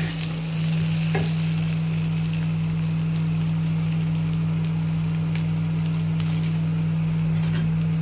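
Onions and ginger garlic paste sizzling as they fry in a pan, stirred with a few scrapes of the spatula, over a steady low hum.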